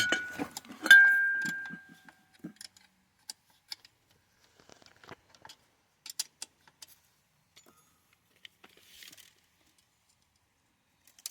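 Metal wrenches clinking: one loud ringing clank about a second in, then scattered light clicks and taps of tools against metal.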